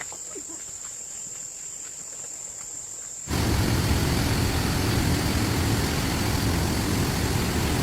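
Steady high-pitched insect drone, like crickets, over faint background; about three seconds in it is cut off by a sudden, much louder steady rushing noise with a deep rumble.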